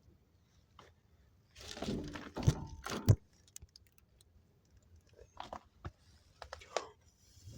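Close handling clatter: a short burst of scraping and knocking about two seconds in, ending in two sharp knocks, then several light clicks near the end.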